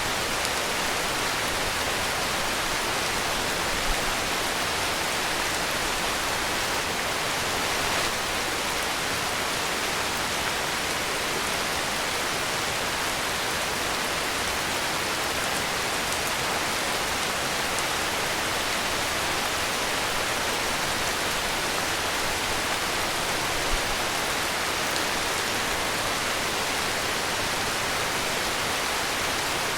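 Steady heavy rain, an even hiss with a couple of faint drop-like ticks.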